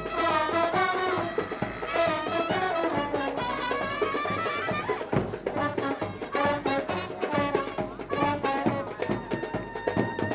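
Indian wedding brass band playing: horns carry a wavering melody over a dense beat of drums, and about halfway in the horns thin out, leaving mostly drumming.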